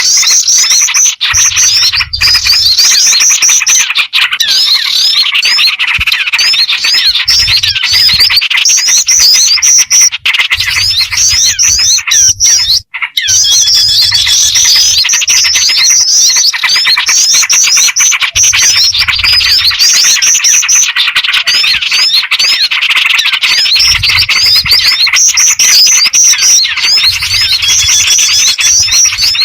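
Dense, loud chorus of many small birds calling over one another in rapid chirps and trills: a bird-lure (pikat) recording that mixes black-winged flycatcher-shrike (jingjing batu) calls with small-bird and yellow-vented bulbul (trucukan) calls. It drops out briefly about halfway through.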